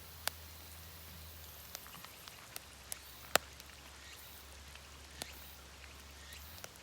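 Wood fire crackling: scattered sharp pops at irregular times, one louder pop about halfway through, over a faint steady background.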